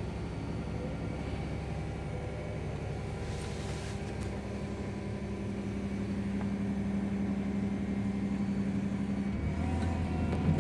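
Heavy construction machine's engine running steadily, growing louder from about halfway through and dropping to a lower note near the end.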